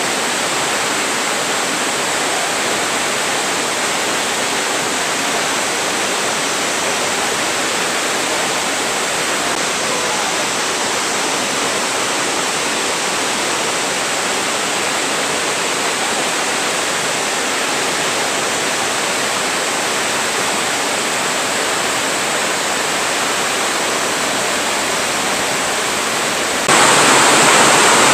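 Nunobiki Falls' Ontaki waterfall, a steady rush of falling water, which turns suddenly louder near the end.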